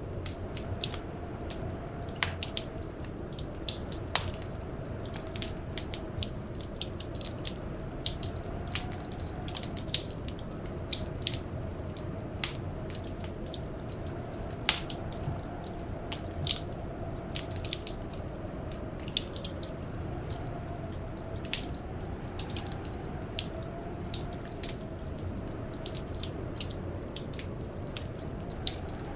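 Wood fire crackling in a fireplace: irregular sharp pops and snaps, several a second, over a steady low rush, with a faint wavering whistle underneath.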